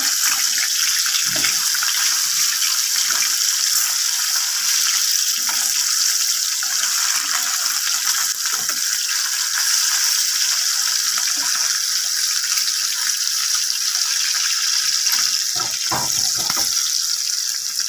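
Fish pieces shallow-frying in hot oil in a pan: a steady, loud sizzle. A few soft knocks of a metal spatula come as the pieces are turned, several of them near the end.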